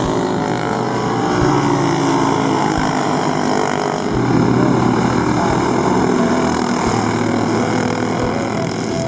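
Several racing go-kart engines running on track, their pitch rising and falling as the karts accelerate, lift off and pass.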